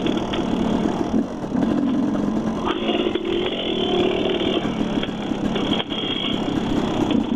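Dirt bike engine running while being ridden along a trail, its pitch rising and falling with the throttle.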